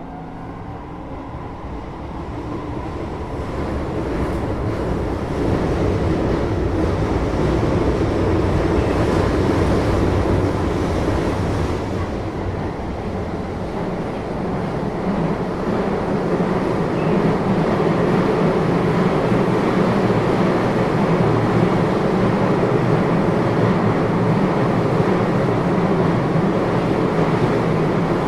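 Running noise heard inside a Keio 8000 series electric train car: the rumble of wheels on rail and the motors grows louder over the first few seconds as the train gathers speed, then holds steady at speed, dipping briefly about halfway through.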